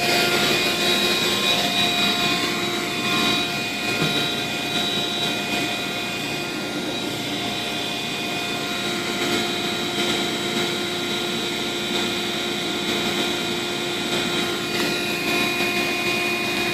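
A motor running steadily with a constant, even whine, without change in speed.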